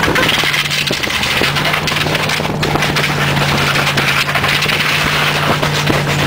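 Lifted Chevrolet Silverado pickup's engine running steadily through its Flowmaster exhaust, its note firming up about a second and a half in, under a loud constant rushing noise with scattered clicks and rattles.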